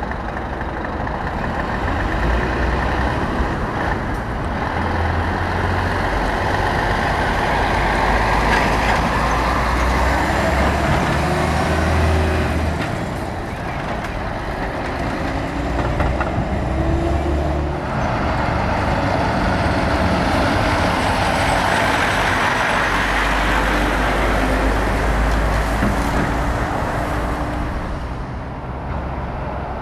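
Heavy diesel trucks driving past one after another, their engines running loud, with the engine note shifting as each pulls by.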